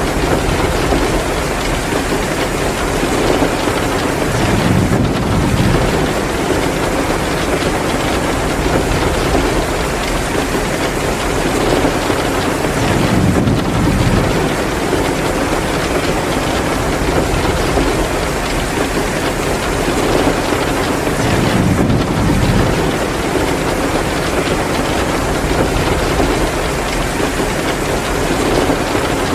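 Steady heavy downpour of rain, with a low rumbling swell rising and fading about every eight seconds.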